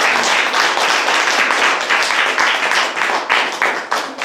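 Audience applauding, a dense steady clapping that thins out toward the end.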